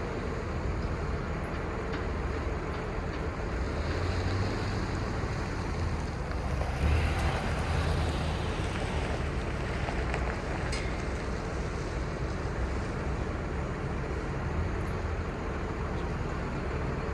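Crane truck's Cummins diesel engine running steadily, a low rumble under a broad hiss, swelling briefly about seven seconds in.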